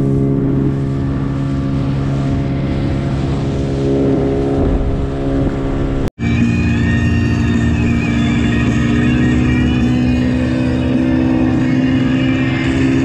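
Gladiator 9.9 hp outboard motor running steadily under way, with a brief dropout about six seconds in where the recording cuts.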